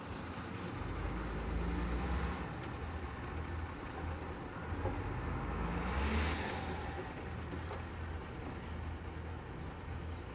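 Heavy diesel engine running steadily at a loading site, with a louder rush of noise about six seconds in.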